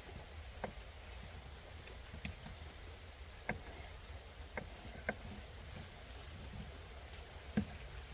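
Scattered drops of rain tapping one at a time, about six sharp ticks at irregular intervals, over a steady low rumble of road traffic.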